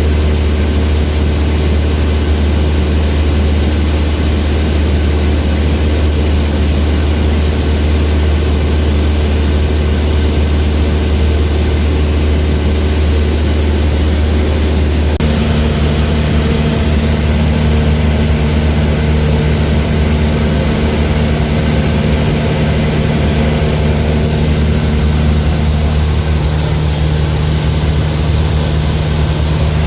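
Small propeller airplane's engine running at a steady, loud drone with a deep hum. About halfway through, the engine note shifts to a different steady pitch.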